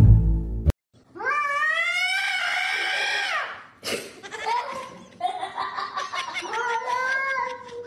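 A cat yowling: a long drawn-out wail rising in pitch about a second in, then a broken, wavering run of lower yowls from about four seconds in.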